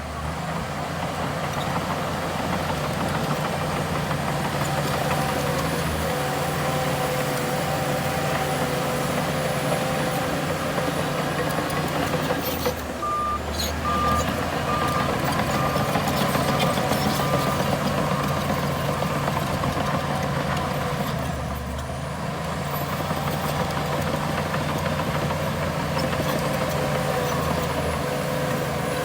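Heavy diesel earthmoving machinery running steadily under load. About halfway through, a reversing alarm beeps about eight times in a row.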